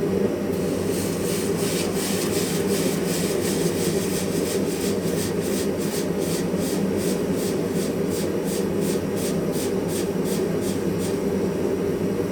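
Rapid, even back-and-forth scraping strokes, about three to four a second, starting about half a second in and stopping near the end, over a steady low roar.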